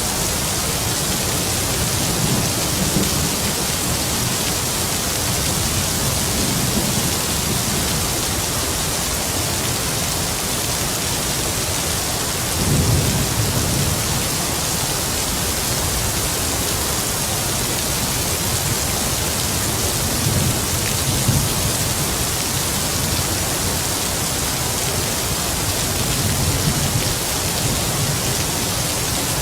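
Heavy rain falling steadily, with low rumbles of distant thunder rolling in about five times, the loudest about halfway through.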